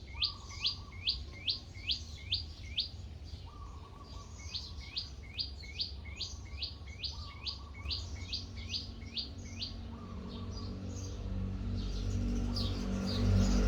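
A bird singing runs of repeated sharp, hooked chirps, about three a second, in two series with a short gap between them, while a lower, longer note from another bird sounds now and then. A low rumbling noise grows louder toward the end.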